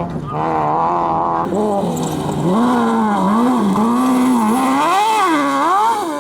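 Competition engine at full throttle on a dirt slalom course. It is held at high revs at first, then the revs rise and fall again and again as the driver works the throttle through the turns, climbing and dropping sharply near the end.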